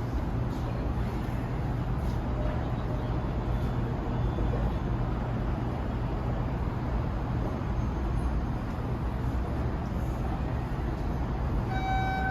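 Steady low rumble and hum of a train at a subway station platform. Near the end a pitched electronic chime tone begins.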